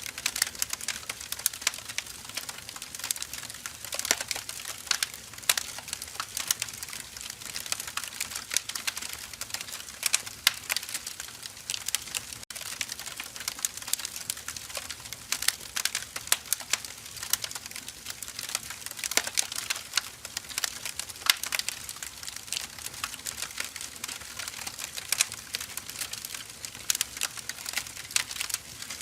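Firewood logs burning, crackling and snapping steadily with many small irregular pops over a soft hiss.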